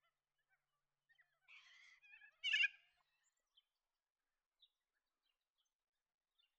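Spiny-cheeked honeyeater calling: a soft chattering call about a second and a half in, then a louder short call a moment later, followed by a few faint chips.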